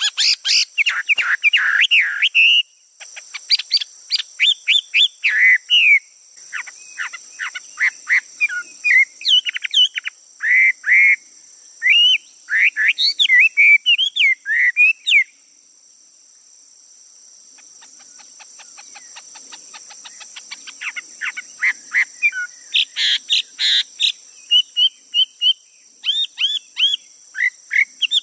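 A male songbird singing in quick runs of varied whistled and chirping notes. It pauses for a couple of seconds about halfway, then resumes with faster repeated notes. A steady high insect drone runs underneath.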